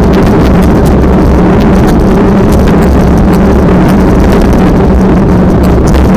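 Loud, steady wind noise buffeting the microphone over a constant low hum.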